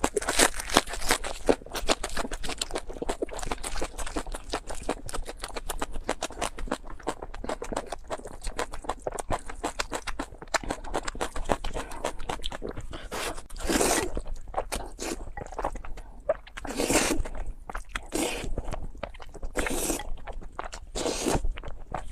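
Close-miked crunching of crisp food, a dense run of sharp crackles that gives way to several longer, louder crunches in the second half.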